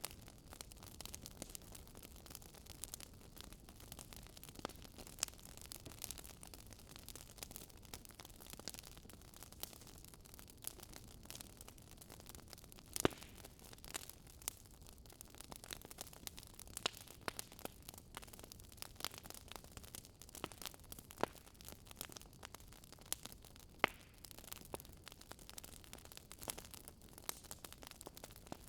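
Wood fire crackling in a fireplace: scattered sharp pops and snaps over a faint low hiss, with a louder pop about halfway through.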